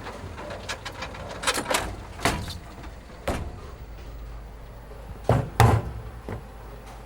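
A series of sharp knocks and clatters over a steady low background hum, the loudest two close together about five and a half seconds in.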